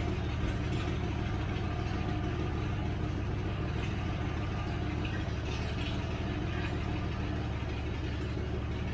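Engine of a 1979 Chevrolet Caravan idling steadily with an even, unchanging note.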